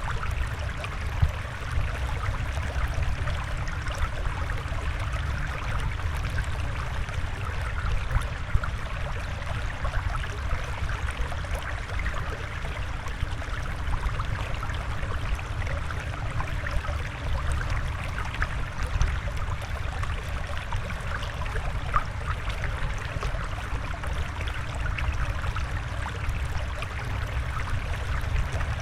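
Water flowing and trickling steadily, with small irregular splashes and drips.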